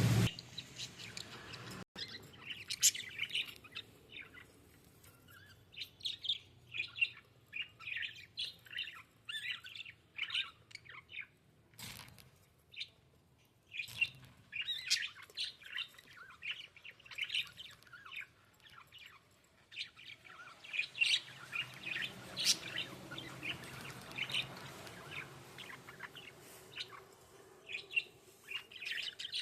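Budgerigars chirping and chattering in quick runs of short, high chirps, with a couple of brief lulls and a few sharp clicks.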